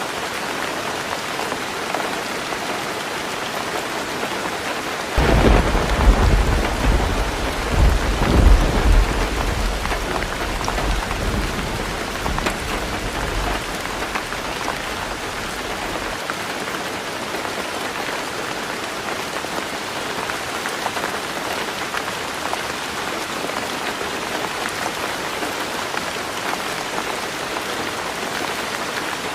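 Heavy rain drumming steadily on a tin roof, with a thunderclap about five seconds in that rumbles and fades over roughly ten seconds.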